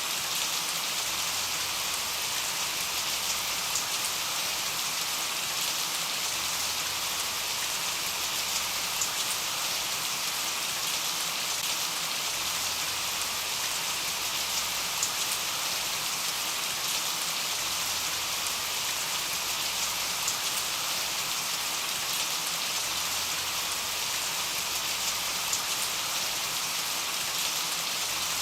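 Steady rain falling as an even hiss, with the odd individual drop ticking out now and then.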